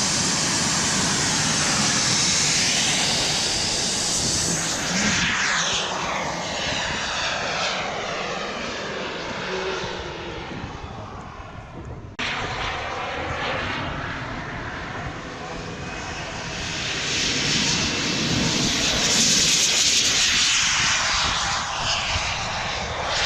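Engine noise of a large-scale model airliner flying past: a loud, steady rush that swells and sweeps as the aircraft passes. There are two passes, with an abrupt cut about halfway.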